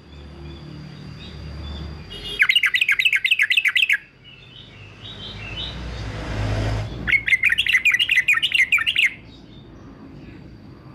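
Male yellow-vented bulbul singing two bursts of fast, rapidly repeated chattering notes of about two seconds each, one a couple of seconds in and one just past the middle. Between the bursts a rushing noise swells and fades.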